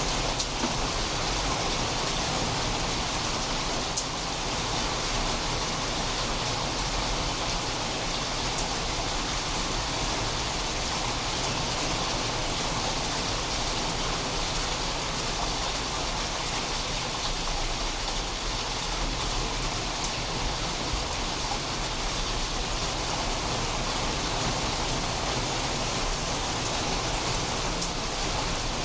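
Steady rain falling during a storm, an even hiss with a few sharp individual drop clicks near the start and about four seconds in.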